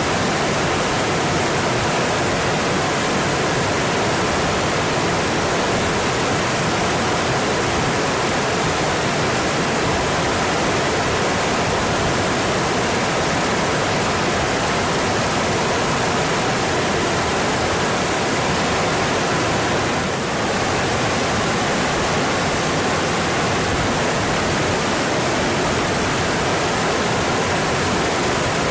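Mountain stream rushing over its bed in a steady, dense roar of water, with a brief slight dip about 20 seconds in.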